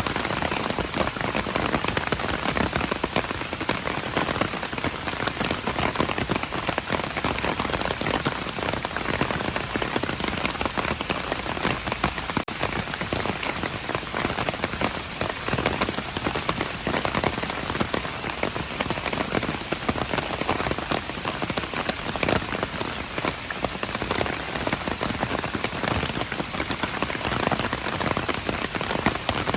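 Steady rain falling, thick with the ticks of individual drops striking a hard surface.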